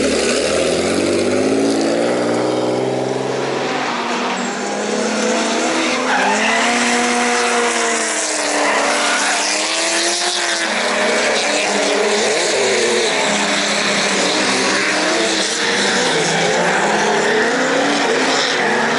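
Drift cars on track, their engines revving up and down in pitch, with tyre squeal and skidding noise over the top.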